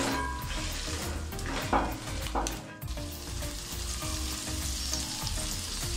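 Cut okra sizzling in hot oil in a metal pot, being fried until it loses its sliminess. A spatula scrapes and stirs through the pieces for the first few seconds, then the sizzle carries on alone.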